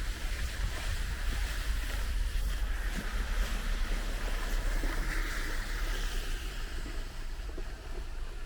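Wind buffeting the microphone as a fluttering low rumble, over a steady outdoor hiss.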